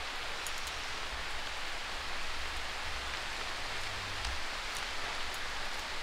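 Light rain falling steadily on surfaces, an even hiss, with a low wind rumble underneath.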